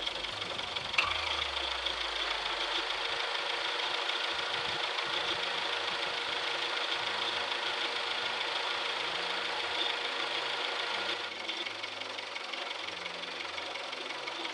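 Mitsubishi Adventure engine idling steadily with the radiator open while coolant is topped up, run to burp trapped air out of the cooling system. There is a click about a second in, and the sound gets a little quieter about eleven seconds in.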